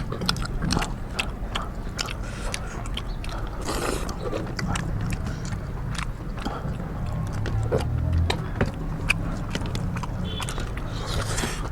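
People eating rice and curry: many quick, irregular chewing and lip-smacking clicks over a steady low hum.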